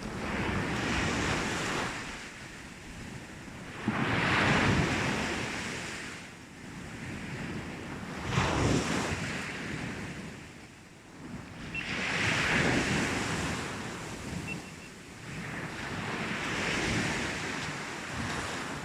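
Sea waves breaking on a beach, each surge of surf swelling and fading about every four seconds.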